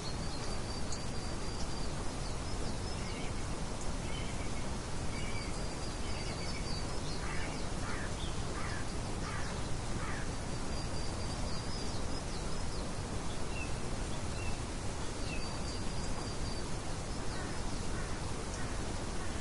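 Birds chirping in short, repeated high trills over a steady background hiss, with a cluster of shorter, lower calls around the middle.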